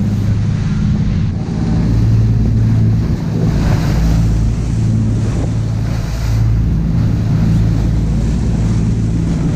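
A boat's engine running with a steady low drone, under wind buffeting the microphone and the rush of water against the hull.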